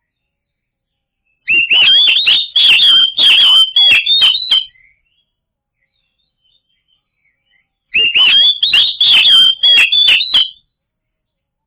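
Oriental magpie-robin singing: two phrases of rapid, varied whistled notes mixed with sharp clicks, each about three seconds long, with a pause of about three seconds between them.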